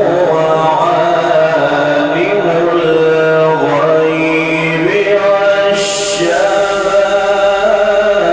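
A man's voice chanting Quran recitation in a long, slow melodic line, holding notes and turning them with ornamented glides. A short hiss comes about six seconds in.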